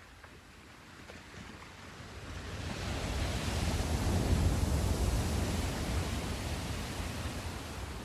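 Sea surf: one wave builds over a couple of seconds, breaks with a broad rush of water, and slowly washes back and fades.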